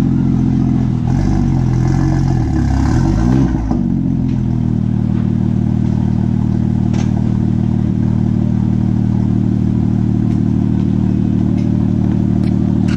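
BMW M2's turbocharged 3.0-litre inline-six running through a catless straight-pipe downpipe: idling steadily, with one blip of the throttle from about a second in that rises and drops back to idle by about four and a half seconds.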